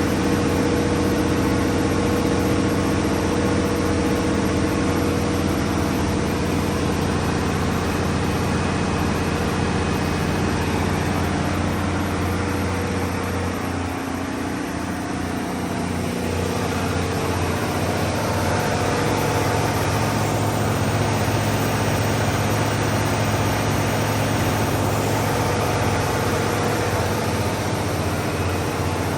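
The Cummins QST30-G2 V12 diesel engine of a 750 kW generator set running steadily. Its tone changes somewhat about halfway through.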